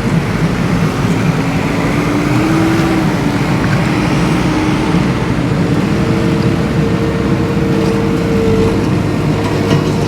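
Steady engine-like rumble with a faint whine above it that steps up in pitch about halfway through.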